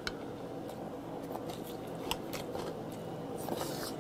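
Close-up chewing of marinated pork ribs: scattered soft, sharp mouth clicks at an uneven pace over a steady low hum.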